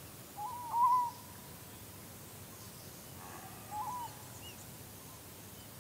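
A bird calling: two short, clear, pitched calls about three seconds apart, the first a little longer, with a faint higher chirp after the second, over quiet outdoor ambience.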